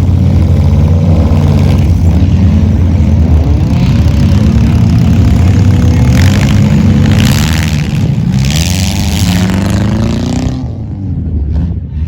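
Several race car engines running loud and revving at once, their pitches rising and falling as they go round the track; the sound drops off about ten seconds in.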